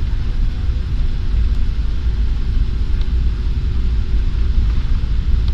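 Airliner engines and airframe making a steady, loud, low rumble during the takeoff run.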